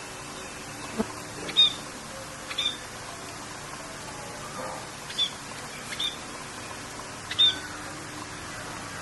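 Birds chirping, short sharp calls about once a second, over a steady hiss of rain.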